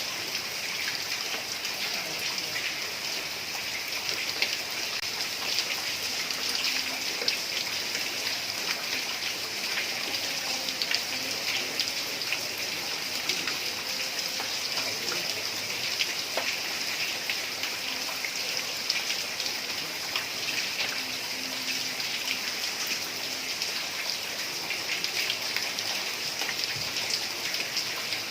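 Heavy rain falling on a tiled roof: a steady, dense hiss of water, made up of countless small drop impacts.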